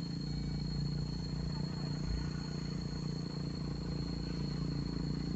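A vehicle engine running steadily at low revs, with a thin steady high tone above it.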